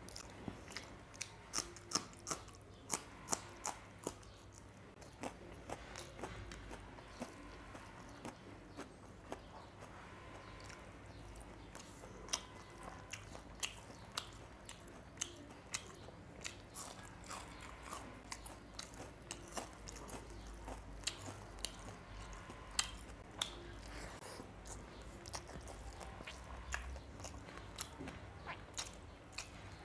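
Close-miked eating: crisp crunching bites of a raw green chilli in the first few seconds, then chewing of small-fish curry and rice with sharp clicks throughout.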